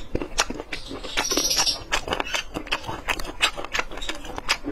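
Close-miked wet chewing of spicy boneless chicken feet: rapid, irregular lip smacks and squelches, with a short airy hiss about a second in.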